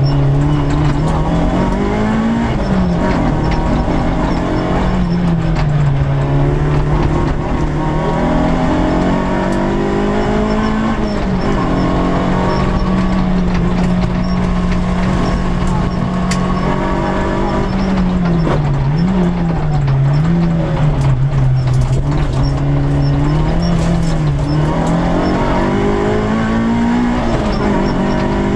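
Peugeot 106 S16 rally car's 1.6-litre 16-valve four-cylinder engine heard from inside the cabin under hard driving: the revs climb and fall back again and again with the gear changes, hold steady for several seconds in the middle, and dip quickly a few times when the driver lifts off.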